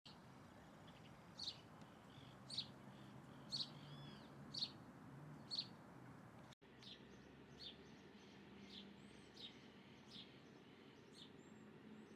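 A bird giving short, sharp chirps about once a second, with faint softer calls between them and a low steady hum underneath. About halfway through there is a brief cut, after which the chirps carry on, fainter and a little quicker.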